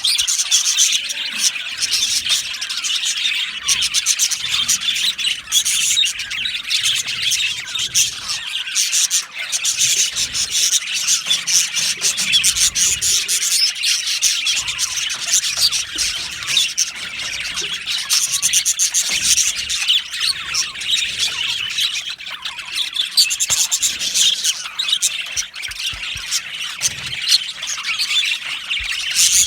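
A flock of budgerigars chattering and chirping continuously, many birds at once in a dense high-pitched warble.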